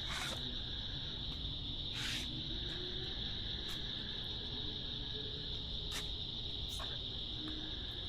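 Chorus of crickets at night: a steady high-pitched trill, broken now and then by a brief, sharper call from another insect.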